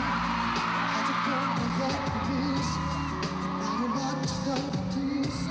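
Korean pop singer performing a pop song live over a backing track, with fans screaming over the music.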